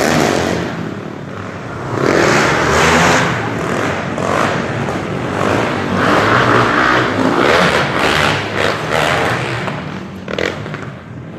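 Motocross bikes racing, engines revving hard and the sound swelling and fading several times as the bikes pass.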